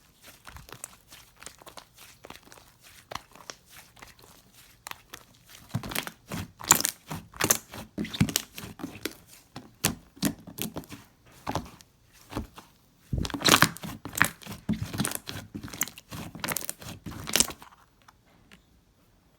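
Slime being squeezed and stretched by hand, giving dense crackly clicks and pops, with two louder spells of fast popping that stop near the end.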